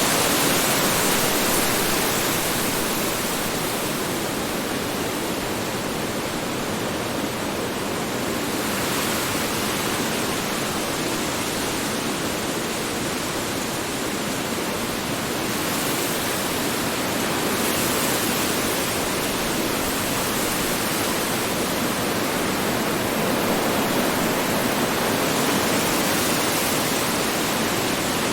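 Strong wind blowing as a steady rushing noise that slowly swells and eases, the high hiss thinning a little a few seconds in and again about halfway through.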